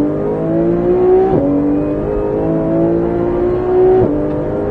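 Porsche 991 GT3's naturally aspirated flat-six at full throttle, heard from inside the cabin. The revs climb steadily and the pitch drops sharply twice, about a second and a half in and again about four seconds in, as the PDK gearbox changes up a gear each time.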